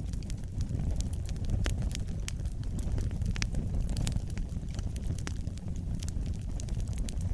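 Wood fire burning with a steady low rumble of flames and frequent sharp, irregular crackles and pops from the burning logs.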